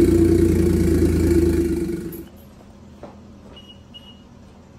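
Toyota 1JZ-GTE VVT-i turbo inline-six engine running, heard up close in the engine bay; it cuts off abruptly a little over two seconds in. Running means the engine is accepting the swapped immobilizer chip. Then much quieter, with a few faint ticks and two short high beeps.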